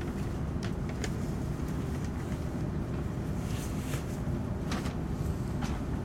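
Running noise inside the cabin of an E5 series Shinkansen: a steady low rumble, with a few brief ticks scattered through it.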